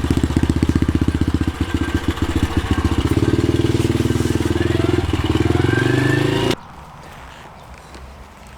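Pit bike's small single-cylinder engine running with a fast even putter, revving up about three seconds in, then cutting off suddenly about two-thirds of the way through.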